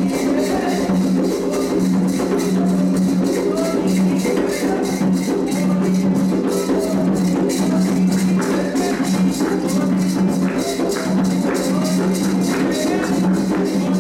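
Candomblé ritual percussion: hand drums and a rattling shaker keep a steady, continuous rhythm, with voices singing faintly underneath.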